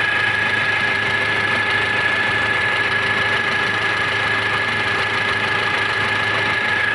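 A freshly overhauled Nissan TD27 four-cylinder diesel in a 2.5-ton forklift, idling steadily and running normally, with a thin steady whine above the engine noise.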